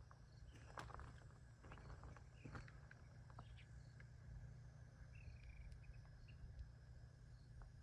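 Faint outdoor ambience: a walker's light footsteps on gravel, a few short bird chirps with a brief trill about five seconds in, over a low steady rumble of wind.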